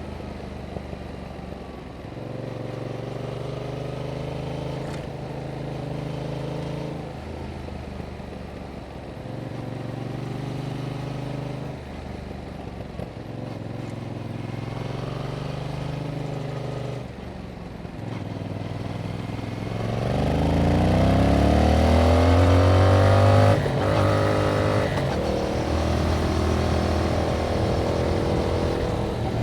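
2021 Yamaha MT-07's 270-degree parallel-twin running through its original exhaust: several stretches of steady engine note with drops between them, then about two-thirds of the way through it revs up, louder and rising in pitch, with a brief break near the end before settling into a steady pull.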